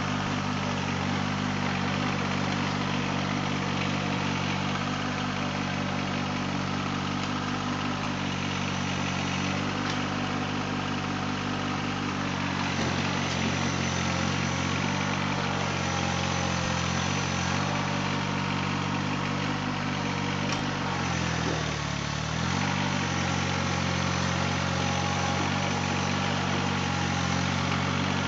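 Mahindra eMax 20S HST compact tractor's diesel engine running steadily, its pitch wavering midway and sagging briefly before recovering a bit past two-thirds through.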